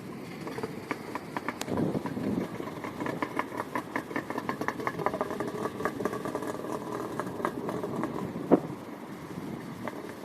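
Small boat's motor running steadily, with a rapid rattle of ticks over it and one sharp knock about eight seconds in.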